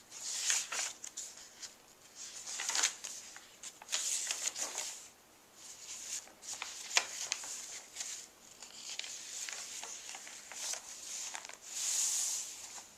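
Paper rustling and crinkling as the pages and loose paper inserts of a handmade junk journal are handled and turned, in a run of short, separate rustles.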